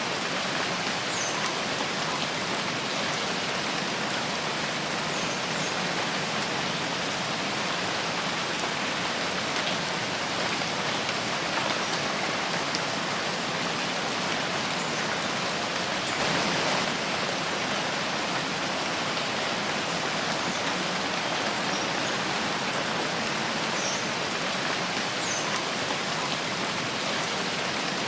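Steady rain falling in a forest: a dense, even hiss of drops on leaves and the ground, briefly a little heavier about two-thirds of the way through.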